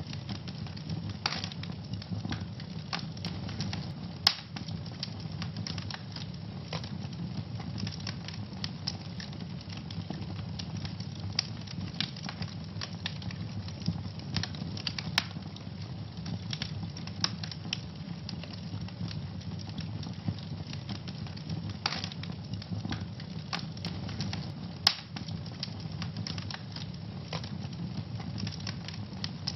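Wood fire crackling in a fireplace: a steady low rumble of flames with frequent sharp pops and snaps, two louder pops about four seconds in and about twenty-five seconds in.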